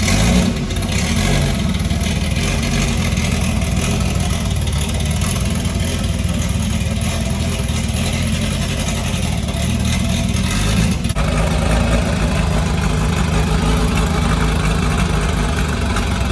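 Turbocharged 1988 Nissan 300ZX (Z31) V6 engine running steadily, with an abrupt change in the sound about eleven seconds in.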